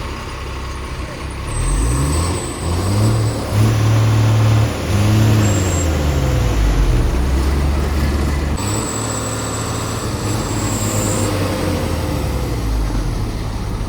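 A heavy diesel engine revving hard under load, its pitch rising and falling repeatedly for several seconds, then settling into a steadier run. A thin high whistle sounds twice over it.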